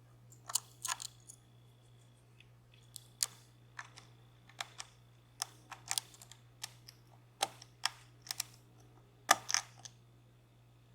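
Thin lock pick and tension wrench working the pin stacks of a DOM Plura cylinder during single-pin picking: small, irregular metallic clicks and ticks, one to three a second, over a faint steady low hum.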